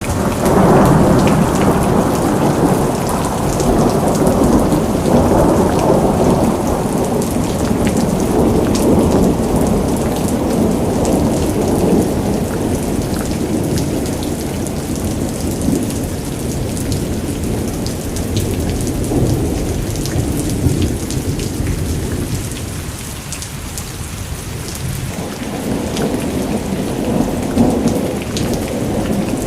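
Heavy rain pouring down, with a low rumble of thunder that swells and fades and eases briefly about three-quarters of the way through.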